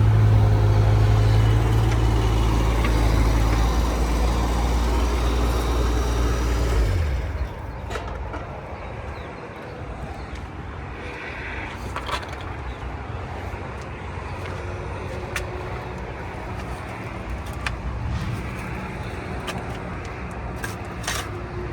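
Mini excavator engine running steadily, then dropping to a much quieter idle about seven seconds in. A few scattered sharp clicks and knocks follow over the lower hum.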